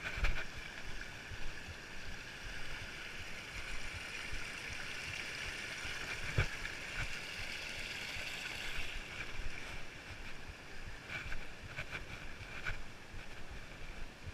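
Steady rush of flowing stream water, with a few short knocks, once near the start, once midway and several in the last few seconds.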